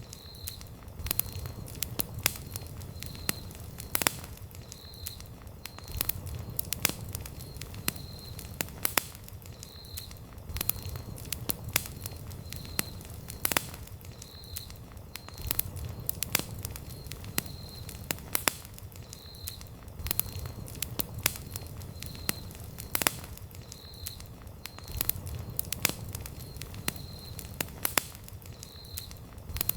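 Wood campfire crackling, with frequent sharp pops over a low rumble of the burning fire. A faint short high chirp repeats about once a second behind it.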